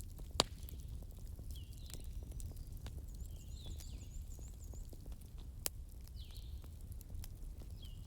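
Wood fire crackling: a low steady rumble with scattered small ticks and two sharp pops, about half a second in and past five seconds in. Short, high, falling chirps recur over it every second or two.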